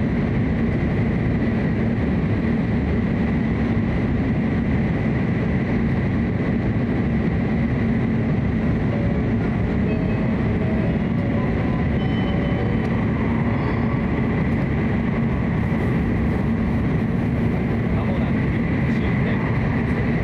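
Hokuriku Shinkansen high-speed train running at speed, heard from inside the passenger car: a steady, unbroken rumble of wheels and air with a faint high whine held throughout.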